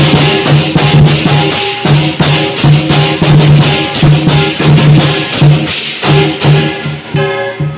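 Lion dance music: fast, dense drum and cymbal strikes over a steady low pitched part.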